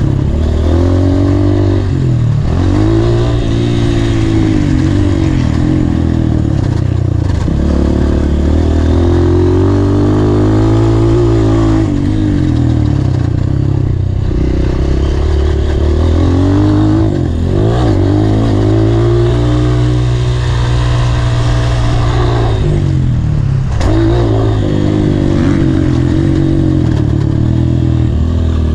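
Honda CRF230's air-cooled single-cylinder four-stroke engine being ridden hard, revving up and falling off again and again, with a brief drop in engine speed every few seconds as the throttle is shut or a gear is changed.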